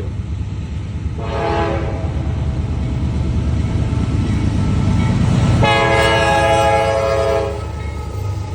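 Diesel freight locomotive horn on a Norfolk Southern manifest train sounding two blasts, a short one about a second in and a longer one midway, over the steady low rumble of the passing train.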